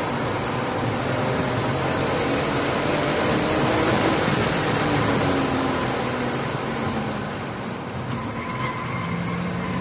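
BMW E46 M3 inline-six engine heard from inside the cabin, pulling hard in third gear with the revs climbing. Near the end the throttle is lifted and the revs fall away as the car slows for a corner.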